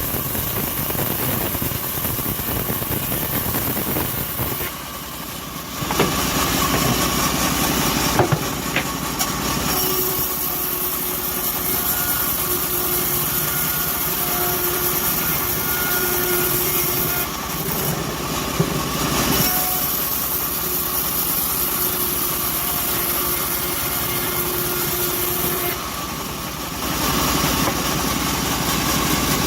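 Homemade bandsaw mill running and ripping an acacia log: steady loud machine noise, dipping briefly twice, with a thin whine coming and going through the middle.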